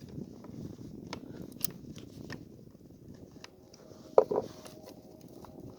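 Light clicks and scrapes of a chainsaw and hand tools being handled while the chain tension is adjusted, with two sharper knocks close together about four seconds in.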